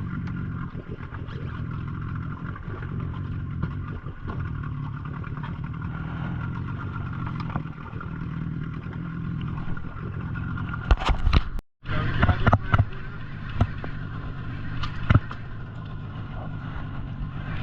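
A boat's engine runs steadily. About two-thirds of the way through there are several loud knocks, the sound cuts out for a moment, and a few more knocks follow.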